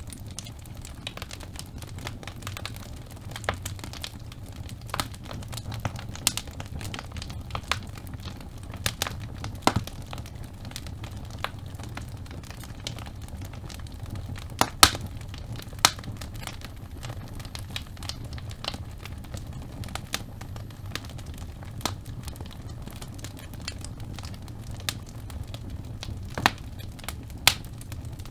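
Wood fire burning in a fireplace: logs crackling and popping at irregular moments over a steady low rumble of flame, with the sharpest pop about halfway through.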